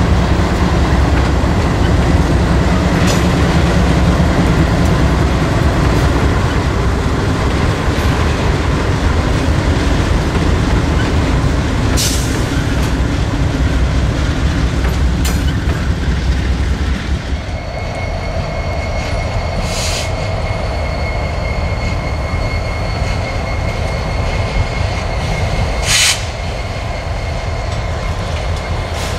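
A freight train rolling past, its wheels rumbling and clattering on the rails. A little over halfway through the deep rumble falls away and a steady high-pitched wheel squeal sets in, with a few sharp clanks along the way.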